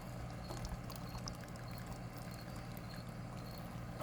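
Water trickling and pouring off a strainer scoop as pasta is lifted out of a pot of boiling water, with small clicks. Crickets chirp faintly over a steady low hum.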